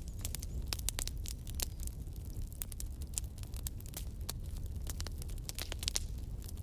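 Wood campfire crackling: many irregular sharp pops and snaps over a steady low rumble of the flames.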